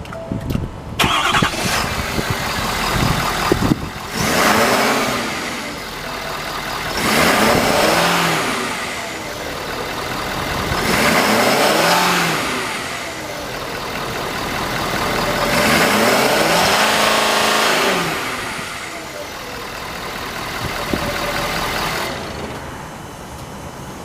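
Ford F-450 pickup engine cranked and catching about a second in. It is then revved about five times, each rev rising and falling back to idle, before the sound drops away near the end.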